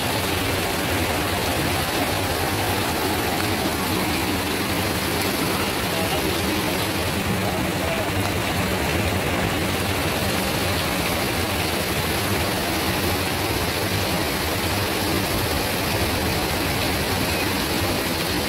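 Heavy rain falling steadily on a wet, flooded street: an even, unbroken hiss, with a low steady hum underneath.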